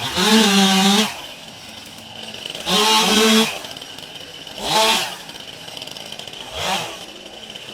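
Two-stroke chainsaw revved in four short bursts, the engine pitch climbing and dropping back to idle between them. The last burst is the shortest and quietest.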